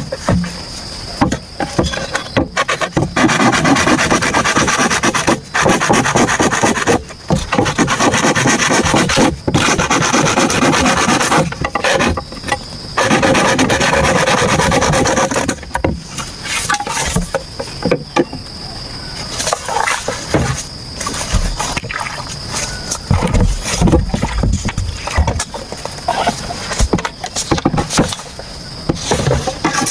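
Bamboo being worked by hand with a blade or saw: long runs of rapid rasping, scraping strokes, with short pauses, give way about halfway through to lighter scrapes and a few low knocks. Insects keep up a steady high buzz behind it.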